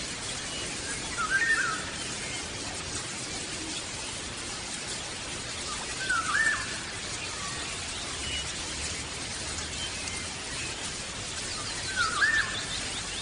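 A bird calling three times, about five to six seconds apart, each a short twisting phrase, over a steady hiss.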